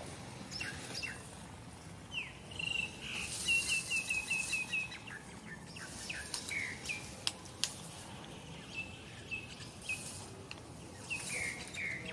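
Small birds chirping in quick runs of short, high notes, with a few falling slurred notes near the end.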